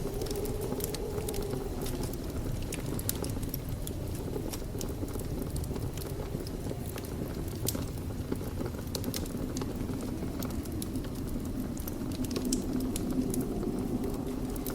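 Fire burning in a fireplace: a steady low rush of flames with many small, sharp crackles and pops.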